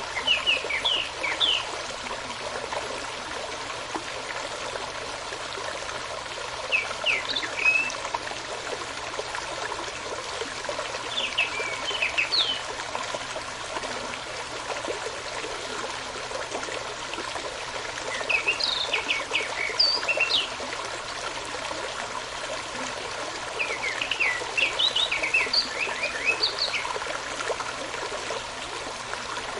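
Stream water running steadily, with a songbird singing short phrases of quick high notes over it, one burst every few seconds, six in all.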